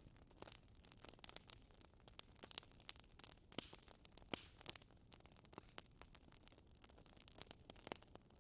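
Wood fire in a fireplace crackling softly: irregular sharp pops and snaps over a faint low hiss, with a few louder pops around the middle.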